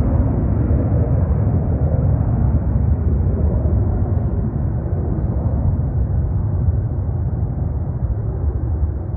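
Jet airliner's engines rumbling and roaring as it lands, the sound slowly fading as the aircraft moves away.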